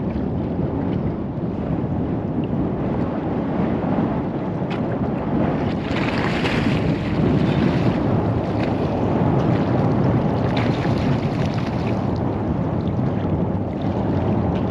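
Wind buffeting the microphone over the steady wash of sea water, with a brief louder rush about six seconds in.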